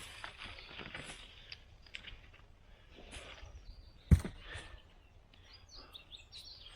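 Soft rustling and handling noises with one sharp thump about four seconds in, and a few faint bird chirps near the end.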